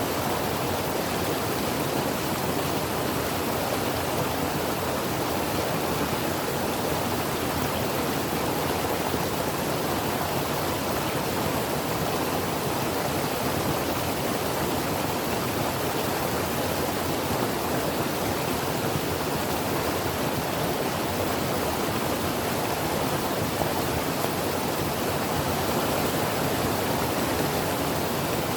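Creek water flowing over rocks: a steady, even rushing with no breaks or changes.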